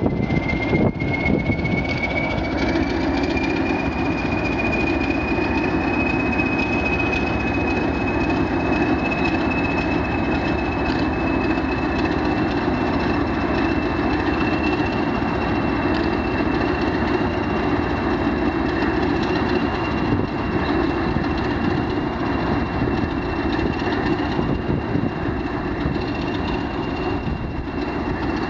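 A train running with a steady heavy rumble. Over it a high whine rises in pitch over the first few seconds and then holds steady.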